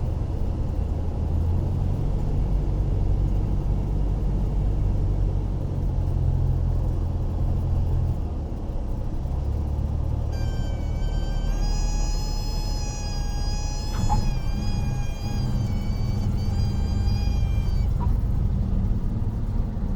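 Cessna light aircraft's piston engine and cabin noise, a steady low rumble. About halfway through, a steady horn-like tone with a slightly wavering pitch sounds for about seven seconds and then stops, typical of the stall warning horn sounding in the landing flare.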